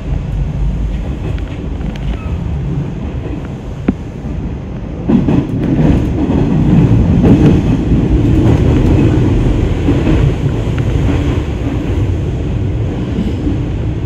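Electric train running through an underground tunnel, heard from inside the front car: a steady rumble of wheels on rails, a sharp click just before four seconds in, then louder rumbling with clatter from about five seconds.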